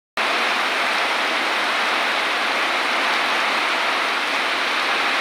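Heavy rain pouring down steadily, an even hiss of downpour on foliage and ground that cuts in abruptly just after the start.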